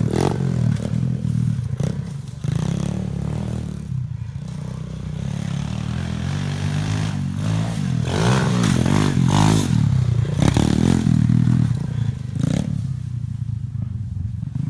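125cc pit bike's four-stroke single-cylinder engine running hard around a dirt track, revving up and easing off again and again as the throttle is opened and closed.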